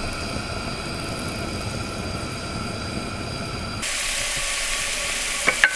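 A steady low rumble, then about four seconds in an abrupt switch to garlic sizzling in hot sesame oil in a wok, with a light tap near the end.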